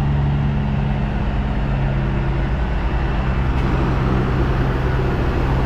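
A semi truck's diesel engine running steadily: a low, even drone that does not rev.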